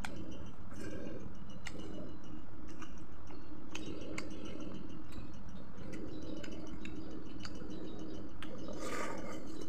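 A person chewing fried chicken close to the microphone, with many short wet mouth clicks over a faint steady hum. A brighter, louder mouth noise comes about nine seconds in.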